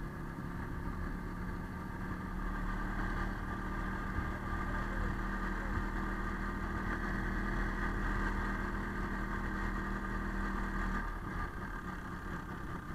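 Izh Planeta motorcycle's single-cylinder two-stroke engine running steadily, with an even hum that drops away about two seconds before the end.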